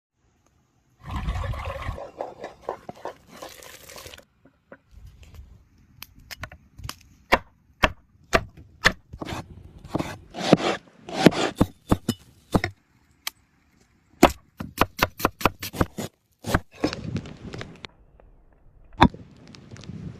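Food being prepared on a wooden board: sharp, irregular knocks like a knife chopping, with scraping and rustling between them, and a quick run of chops about fourteen seconds in.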